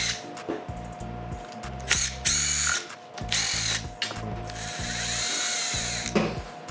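Electric power tool, such as a drill/driver or powered ratchet, running bolts out of an engine in three bursts, its motor whine rising and falling. The last burst is the longest, about two seconds. Background music with a steady beat plays underneath.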